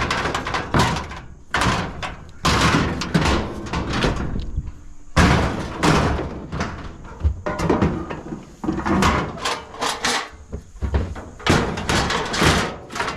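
Scrap metal being handled and thrown into a truck bed: a series of loud metal clanks, bangs and scrapes, some ringing briefly, about a dozen over the span.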